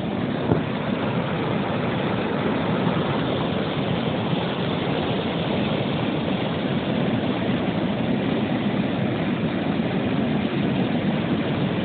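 Floodwater rushing steadily, a constant even roar with no breaks.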